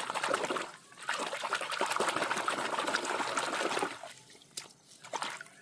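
Water running and splashing over plastic toys as they are washed, with small clicks and knocks of the toys. The water stops about four seconds in, leaving a few light clicks.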